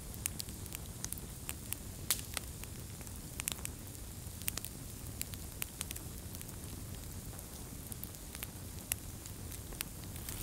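Wood fire crackling: irregular sharp pops and snaps over a steady low rumble and hiss.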